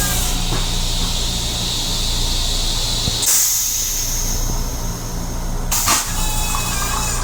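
Steady low hum and hiss of a Long Island Rail Road M7 electric railcar under way. About three seconds in, the hiss turns brighter and higher, and a short click comes near six seconds.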